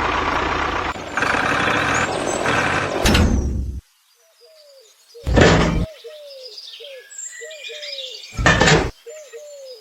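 A loud rushing noise stops abruptly about four seconds in. Then birds chirp in a short falling note, repeated about twice a second, and two heavy thuds come a few seconds apart.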